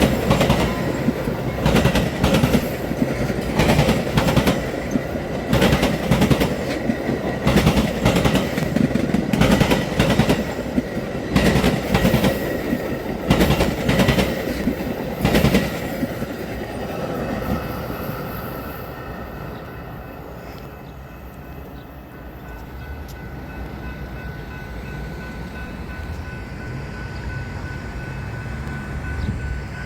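A train rolling over a railroad diamond crossing, its wheels clattering over the crossing in a rapid run of sharp bangs for about the first fifteen seconds. The clatter then stops and the train's sound fades to a quieter steady rumble as it moves away.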